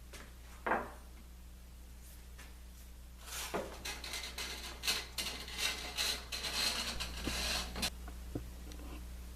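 Workshop handling noise: a single wooden knock about a second in, then about four seconds of clattering knocks and rubbing as a laminated wooden workpiece is moved and set into a Moxon vise.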